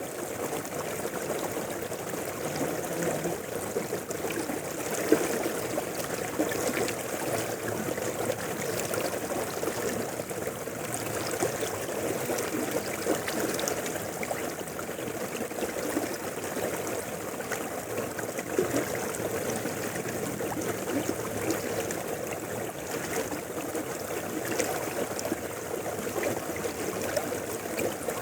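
Mountain river flowing steadily over rocks: a constant rush of water with small irregular splashes and gurgles.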